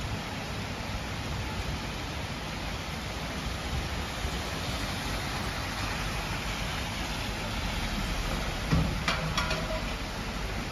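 Heavy rain falling steadily in a summer thunderstorm, an even hiss with no thunder clap in it. A couple of short, sharp knocks stand out about nine seconds in.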